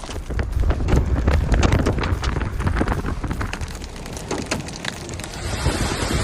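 Wind buffeting the microphone, a low rumble with many irregular sharp clicks and knocks; about five seconds in it gives way to a steadier hiss.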